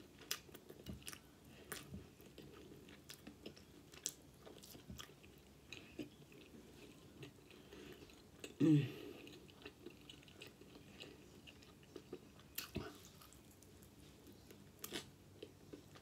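Close-miked chewing and wet lip smacking on fried chicken wings, many small irregular clicks. A short hum of the eater's voice about nine seconds in.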